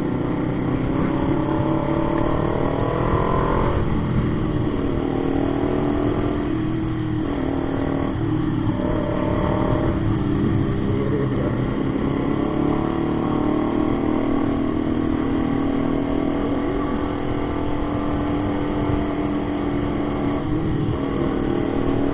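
Motorcycle engine under way, with road and wind noise. Its pitch climbs over the first few seconds and breaks briefly a few times, as at upshifts, then holds steady at cruising speed.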